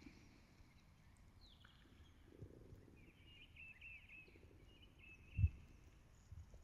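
Quiet outdoor ambience with a small bird chirping a short, quick trill, and a single low thump about five seconds in.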